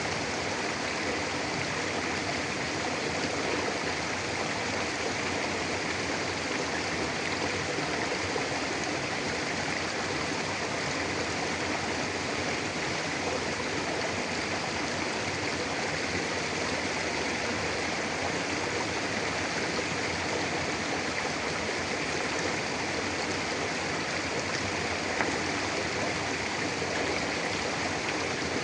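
Shallow mountain river flowing steadily over rocks: a constant rushing and burbling of water.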